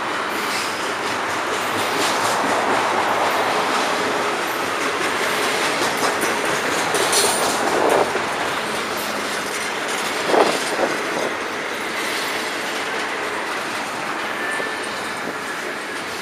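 Freight cars of a long FEC freight train rolling past: a steady din of steel wheels on rail, with two short louder peaks about eight and ten seconds in.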